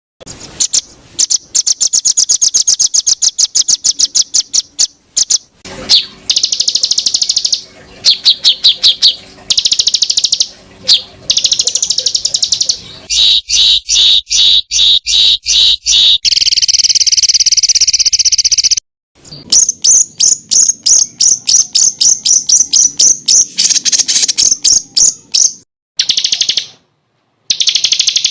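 Small songbird singing long series of rapid, high-pitched repeated notes and trills, the sharp 'tembakan' volleys used as masteran tutor song. The song cuts out abruptly twice, near the middle and near the end, then starts again.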